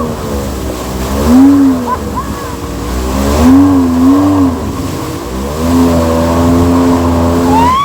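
Jet ski engine running, its pitch rising and falling as the throttle is opened and eased: swells about a second and a half in and again around three and a half to four seconds in, then a steady pitch near the end.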